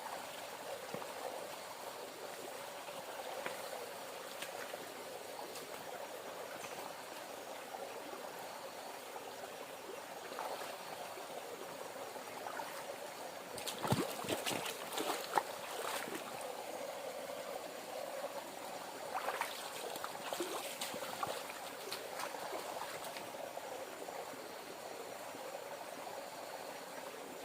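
River water flowing steadily, with a cluster of sharp clicks and knocks about halfway through and a few more a little later.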